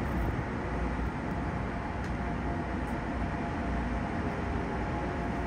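Keikyu 1500-series electric train standing at a platform with its onboard equipment running: a steady low rumble and hum with a faint steady whine.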